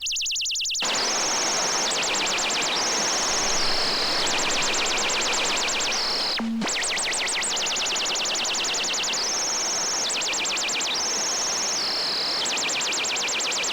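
Synthesized bird chirping: a pure sine wave in a DAW with its frequency swept by automation, giving fast high warbling trills that alternate with short steady and falling whistles. A rain sound sample comes in underneath about a second in. The loop cuts out briefly about halfway through and starts over.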